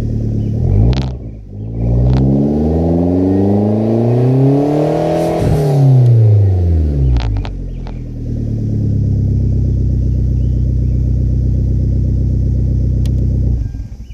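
Hyundai Genesis Coupe 2.0's four-cylinder engine through a custom exhaust: a quick blip of the throttle, then one long rev climbing steadily and dropping back to a steady idle. The engine is switched off near the end and the sound stops suddenly.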